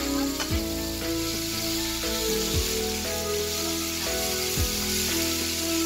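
Udon noodles sizzling as they are stir-fried in a pan, heard under background music with held notes and a deep beat about every two seconds.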